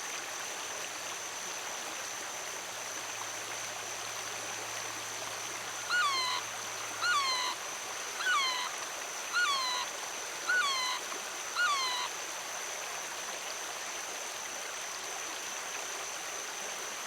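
Flowing stream water running steadily, with a thin steady high tone over it. About six seconds in, an animal calls six times in a row, roughly once a second, each call a short note that drops and hooks.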